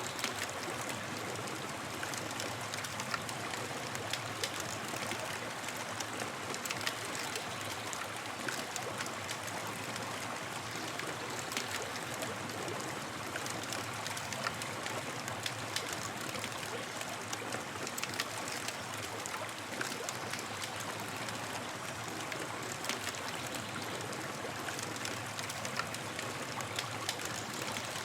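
Campfire crackling: frequent sharp pops and snaps over a steady hiss.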